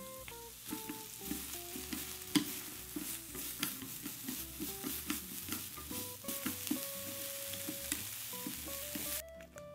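Julienned carrots sizzling as they are stir-fried in a nonstick frying pan, with wooden chopsticks tossing them and clicking against the pan. The sizzle cuts off suddenly near the end.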